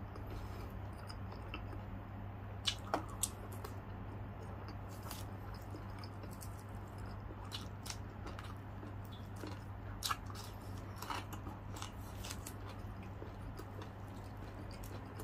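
Close-up chewing of crispy deep-fried chicken, with wet mouth sounds and sharp crackles, loudest about three seconds in and again around ten seconds. A steady low hum runs underneath.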